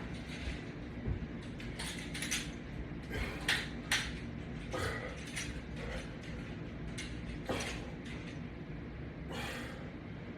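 Resistance-band exercise hardware clinking and creaking during pulling reps: about a dozen irregular light metallic clicks and knocks, with a longer scrape about nine seconds in.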